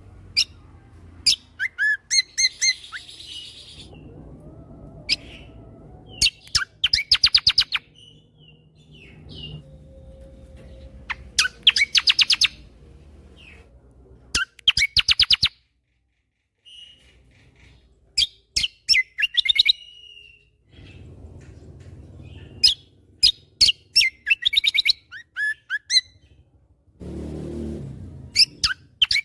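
Kecial kombo songbird singing in repeated bursts of rapid-fire sharp, high notes, each burst lasting about a second, with short pauses between them. A low rumble runs under the song in places, loudest for a moment near the end.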